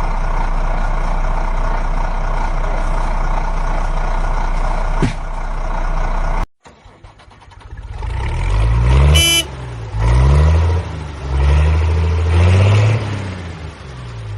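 A steady mechanical drone that cuts off suddenly, then a vehicle engine revving up and down several times, with one short horn toot about nine seconds in.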